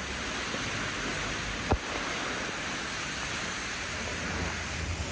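Steady rushing of water, like heavy rain or a torrent, with one short sharp knock a little under two seconds in.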